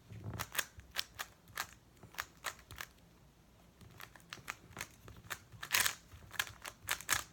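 Speedcube being turned fast by hand in a solve: rapid, irregular clicks and snaps of the plastic layers, with a brief lull about halfway through.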